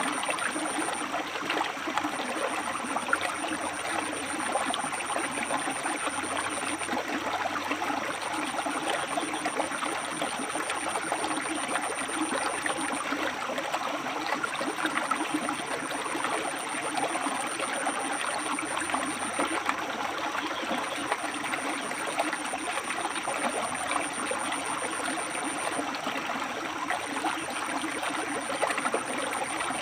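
River water flowing steadily over and between rocks, an even rushing and trickling with no pauses. A thin high tone sits above it, sounding in stretches of about five seconds with short breaks.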